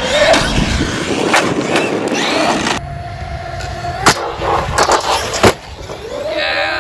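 Traxxas Maxx V2 RC monster truck's electric motor whining up and down in pitch as it speeds up and slows down, its tyres rolling on asphalt. Three sharp knocks as the truck lands and hits the pavement.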